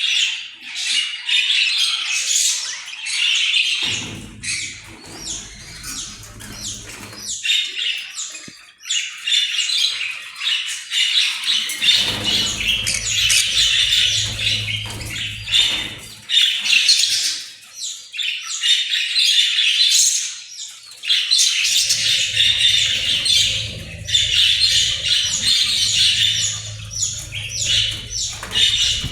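A group of budgerigars chattering, chirping and squawking without pause. A low hum comes and goes under the chatter three times.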